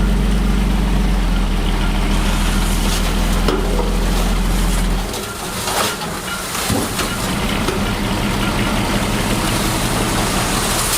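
Heavy diesel engine of construction machinery running with a steady low drone that eases off about five seconds in, with a few short knocks or clanks.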